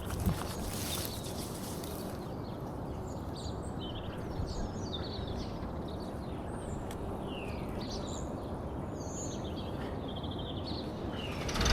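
Small birds chirping and calling in short, quick notes over a steady low outdoor rumble.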